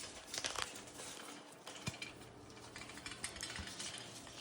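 Scattered light clicks, taps and rattles of small objects and toys being handled inside a macaw's cage, with a few sharper clicks about half a second in, near two seconds, and around three and a half seconds.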